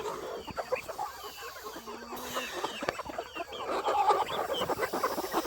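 A flock of chickens clucking and chattering, many short calls overlapping, a little louder near the end.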